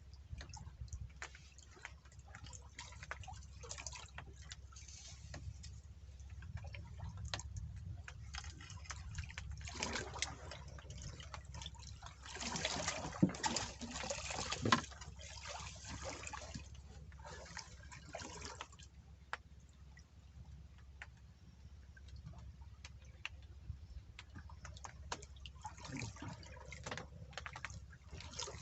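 Water splashing and dripping, with many small scattered clicks and knocks and a louder stretch of splashing about twelve seconds in.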